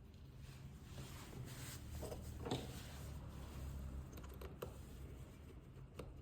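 Light clicks and scrapes of small repair tools working on a smartphone, with one slightly stronger scrape about two and a half seconds in, over a steady low hum.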